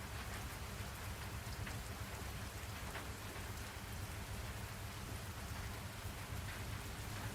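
Steady rain falling as a continuous even hiss, with a low rumble underneath and now and then a distinct drop.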